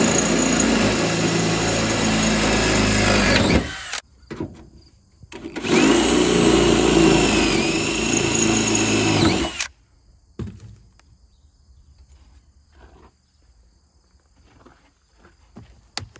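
Power drill drilling a hole, run in two spells of about four seconds each, its motor whine dipping and recovering as the bit loads up. Light clicks and handling noises follow once it stops.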